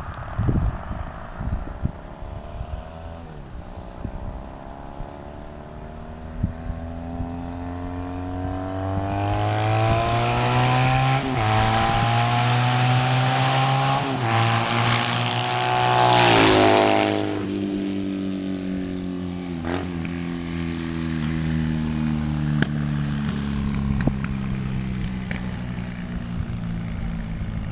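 2005 Triumph Thruxton's air-cooled parallel twin, through a one-off TT exhaust, accelerating toward the listener with the engine note climbing and two quick upshifts. It is loudest as it passes, then its pitch drops as it rides away.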